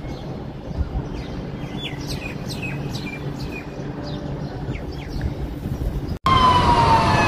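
Small birds chirping in quick falling notes over a steady low rumble of city traffic. About six seconds in, the sound cuts out and a louder siren wail starts, sliding slowly down in pitch.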